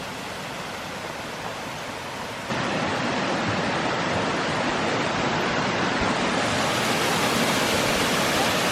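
Rushing water of a small woodland waterfall, a steady hiss that jumps abruptly louder about two and a half seconds in.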